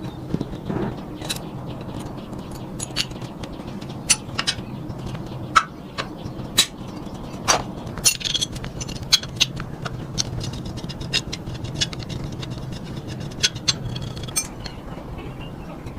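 Irregular metal clicks and scrapes of repair work on a three-wheeled motorbike, over a low steady hum.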